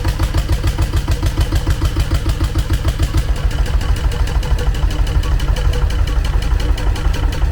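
Antique single-cylinder Ruston Hornsby stationary engine running steadily, each firing stroke heard as an even, rapid beat.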